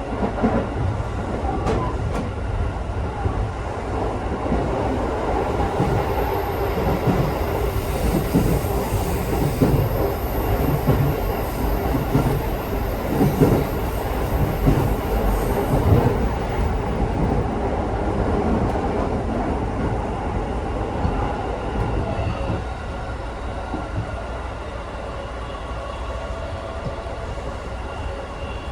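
Electric local train heard from inside the carriage, running: a steady rumble of wheels on rails with irregular low knocks. A thin high whine sounds from about 6 s to 16 s, and the running noise eases a little near the end.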